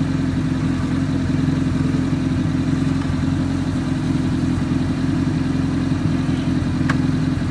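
Off-road 4x4 vehicle engine running at a steady, unchanging speed, with one sharp click near the end.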